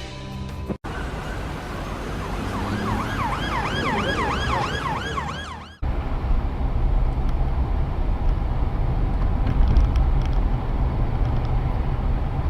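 Emergency vehicle siren in a fast yelp, its pitch swooping up and down about three times a second over road noise, then cut off abruptly. A steady low rumble of road and engine noise follows.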